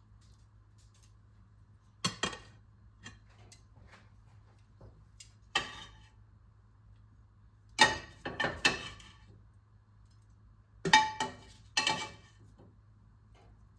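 Dishes and utensils being handled: a few separate clinks and clatters of crockery, glass and metal, with the busiest bursts about eight and eleven seconds in, over a faint steady low hum.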